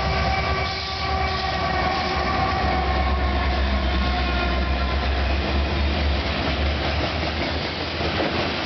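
CN freight train passing close, led by two diesel locomotives: a loud deep engine rumble with a steady whine that sags slightly in pitch, easing near the end as the covered hopper cars roll by on the rails.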